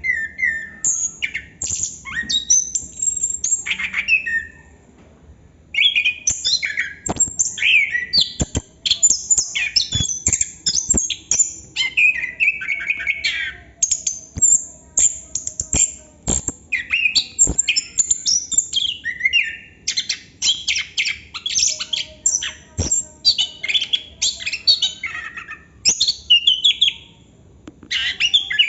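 Chestnut-capped thrush (anis kembang) singing a long, varied rolling song of quick whistles and chirps mixed with sharp clicks, broken by two short pauses.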